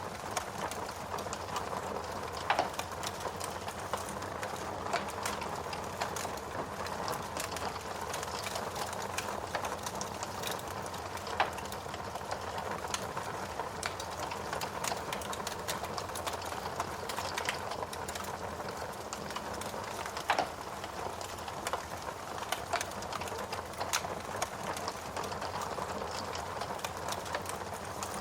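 Wood fire burning in a fireplace: a steady rush of flame with frequent sharp crackles and pops of burning wood, a few of them louder than the rest.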